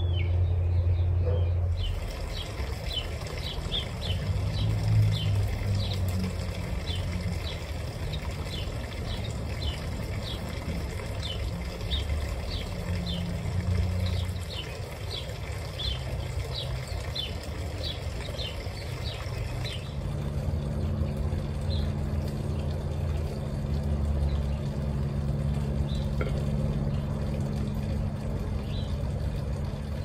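A bird chirping over and over, about two short high chirps a second, above a low steady rumble like distant traffic or an engine. The chirping stops about two-thirds of the way through, and the rumble carries on.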